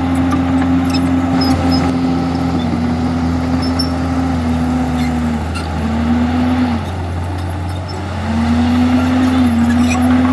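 Komatsu D51EX bulldozer's diesel engine running loud and steady. Its pitch sags in steps through the middle, drops lowest for a couple of seconds, then climbs back up near the end.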